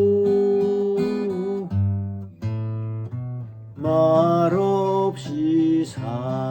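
Music: a voice singing a Korean folk song to acoustic guitar accompaniment.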